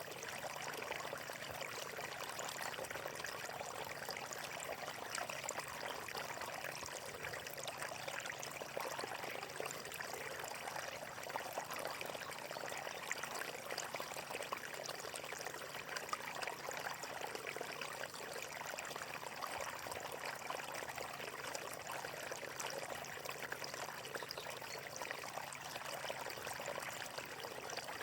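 Running water of a natural stream flowing steadily, an even wash of sound with no breaks.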